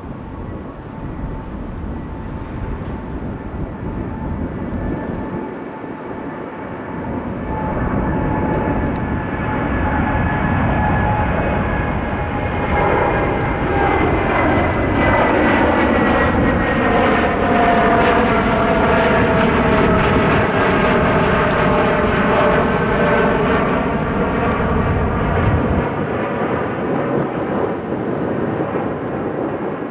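Boeing 787-10 Dreamliner jet airliner passing close by with its turbofan engines running. The roar swells to a peak past the middle, while several engine tones slide down in pitch as it goes past, then it eases off near the end.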